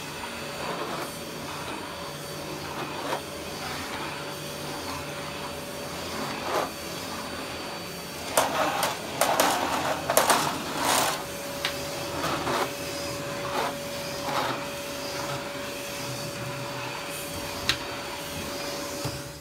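An electric floor-cleaning machine's motor running steadily with a faint whine, and a flurry of knocks and clatters about halfway through.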